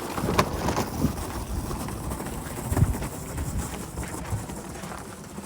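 Wind buffeting the microphone in a snowstorm: an uneven low rumble with irregular thumps, and a few sharp knocks near the start.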